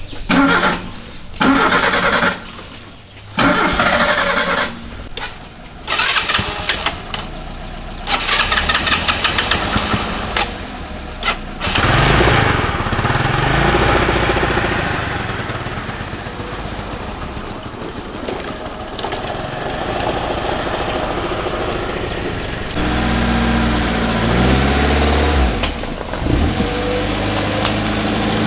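An old Kia car's engine being cranked in several short tries, catching about twelve seconds in and then running. Near the end it is revved twice, the pitch rising and falling.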